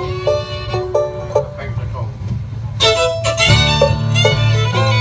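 Live acoustic string band playing the instrumental introduction to a song in a bluegrass/country style, a fiddle carrying the melody over banjo and a walking bass line.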